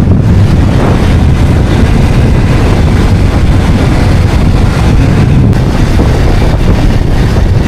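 Moving motorcycle: steady wind noise buffeting the microphone over the engine running.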